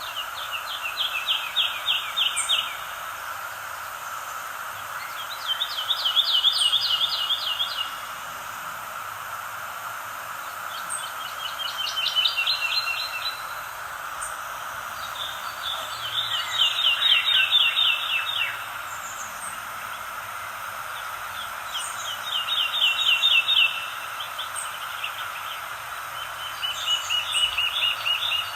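A songbird singing the same quick trilled phrase over and over, six times, each phrase about two seconds of rapid notes, repeated roughly every five seconds. A steady hiss of outdoor ambience runs underneath, with faint high chirps now and then.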